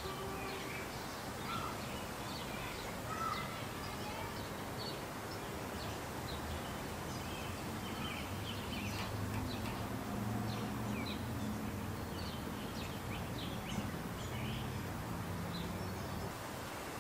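Birds chirping in short, scattered calls over a steady background hum and hiss.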